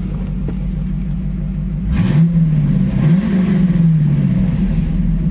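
1993 Corvette's V8 idling through a temporary resonator-delete exhaust, a 3-inch pipe ending in two 3-inch turn-downs. About two seconds in it is revved briefly, then again a second later, the second rev falling slowly back to idle.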